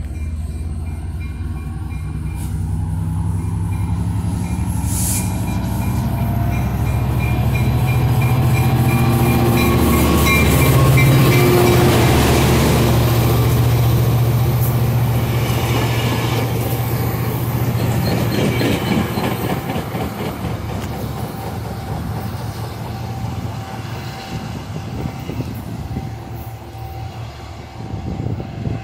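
Trinity Railway Express commuter train running past the station platform: the diesel locomotive's engine drones with a steady low hum and the cars rumble along the rails. The sound builds to its loudest about ten seconds in, then slowly fades as the train moves away.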